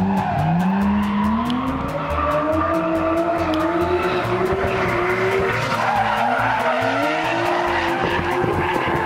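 Nissan Skyline R33's RB25 straight-six revving hard through a drift, with tyres skidding. The revs climb over the first few seconds, drop briefly about six seconds in, then climb again.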